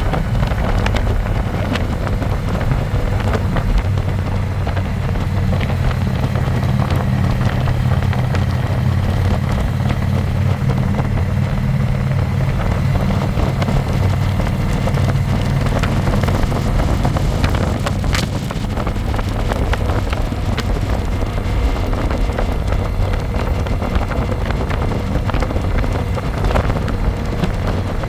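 Harley-Davidson Electra Glide's V-twin engine running steadily under way, with wind rushing over the microphone. The engine note is strongest through the middle and eases after about two thirds of the way through.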